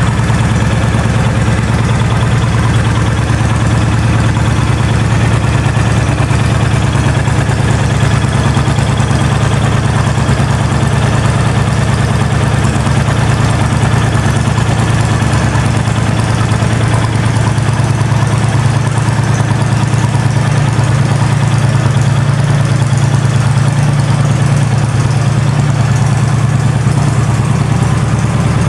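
Honda VTX 1300's liquid-cooled V-twin idling steadily through a slash-cut slip-on exhaust.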